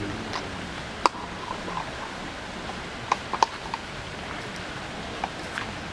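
Steady background hiss with a few brief sharp clicks: one about a second in, three close together around the middle, and two near the end.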